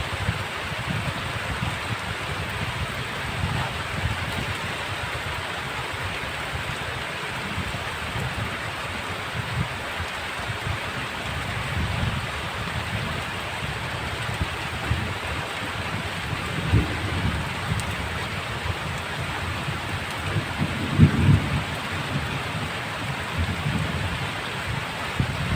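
Heavy rain falling steadily, an even hiss, with a few short low rumbles, the strongest about two-thirds of the way in and again near the end.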